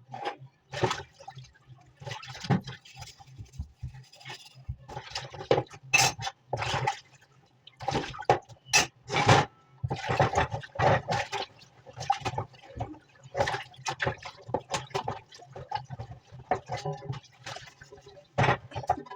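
Water gushing and splashing in irregular bursts, as in dishwashing at a sink, with short knocks mixed in.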